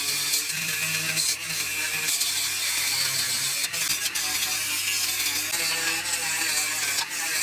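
Steady, rasping mechanical noise of tool work on the truck's parts, with no clear rhythm.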